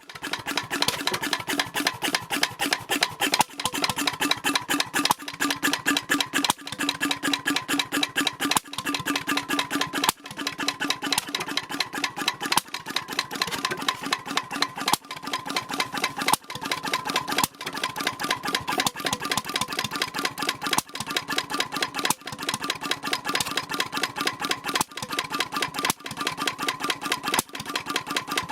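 H V McKay Sunshine 10 hp type C portable engine running, a fast, even clatter of strokes with brief dips every few seconds.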